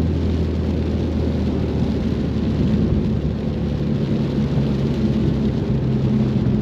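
Ford Mustang engine running while driving, over a steady hiss of tyres on a wet road. The engine note rises about halfway through as it picks up revs.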